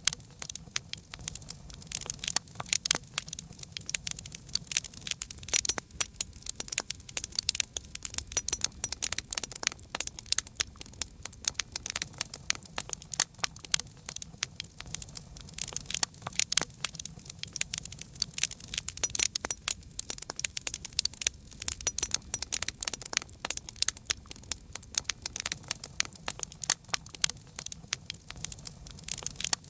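Wood campfire crackling, with dense irregular pops and snaps over a faint low rumble of the flames.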